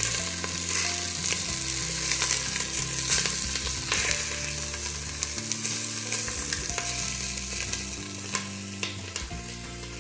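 Chicken thighs frying in hot vegetable oil in a stovetop pressure cooker pot: a steady sizzle with frequent crackling pops as the skin browns.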